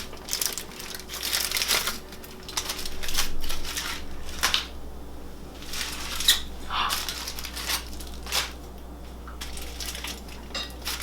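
Wrapping crinkling and rustling in irregular bursts as hot food packets are handled and opened.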